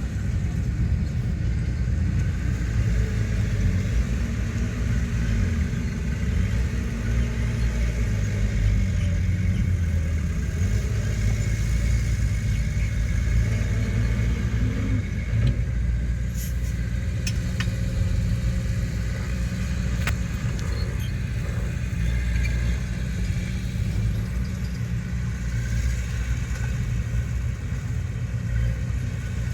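Heavy earthmoving machinery's diesel engine running with a steady low rumble. A few faint clicks sound around sixteen to twenty seconds in.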